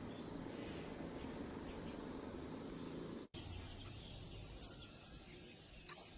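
Steady, faint insect chirring, like crickets, with a quick pulsing trill early on. The sound drops out for an instant about three seconds in, and a few faint short high chirps follow.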